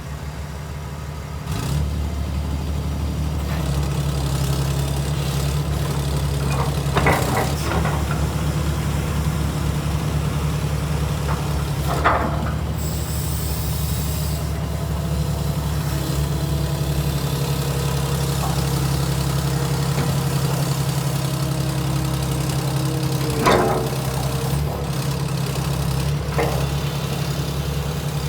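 The diesel engine of a 1993 JCB JS200LC tracked excavator running steadily. Its revs come up about two seconds in, and there are a few brief squeaks or creaks from the machine.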